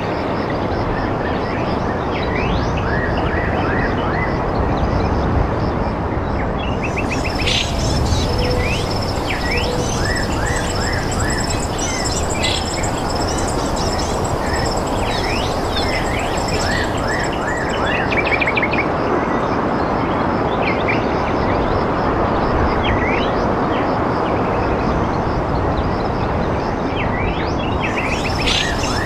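Birds chirping, many short rising calls, over a loud steady rushing noise, with a high continuous trill joining about a quarter of the way in and stopping near the end.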